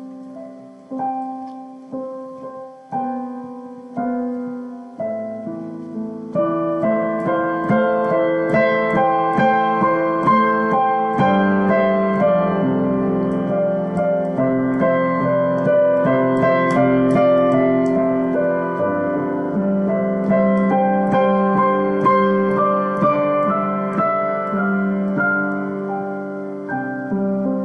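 Solo piano improvising slowly: single notes about once a second at first, then from about six seconds in fuller, louder chords with a running melody above them.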